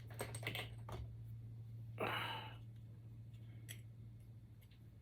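Light clicks and taps of small printer parts being handled during extruder disassembly, with a brief exhale about two seconds in, over a steady low hum.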